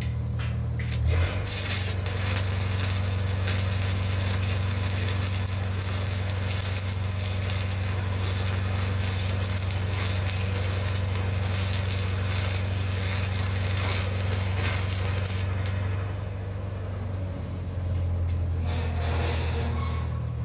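Electric arc welding on steel pipe: a steady crackling sizzle from the arc, in two runs with a short pause between them. A low engine hum runs steadily underneath and shifts in pitch when the arc is struck and broken.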